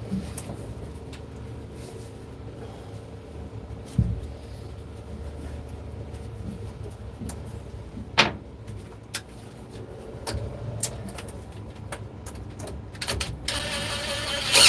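Hand work on a boat engine: a few sharp knocks and clunks of parts and tools over a steady low hum, with a louder rasping, rubbing noise near the end.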